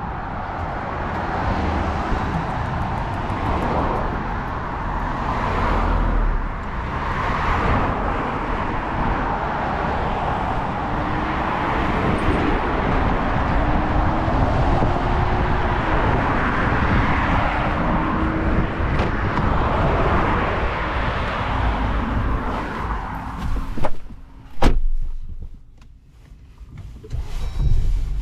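A truck's engine running with steady road and traffic noise, a low tone rising slowly in pitch midway. Near the end come a couple of sharp knocks, then the noise drops off briefly.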